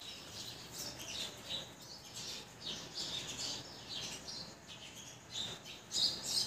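Small birds chirping outdoors: many short, high chirps in quick succession, a little louder near the end.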